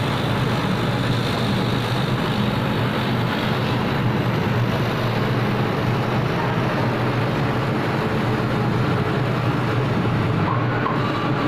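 CNC laser cutting machine running while it cuts a wood sheet: a steady mechanical hum and hiss. A faint thin whine comes and goes, gliding briefly near the end.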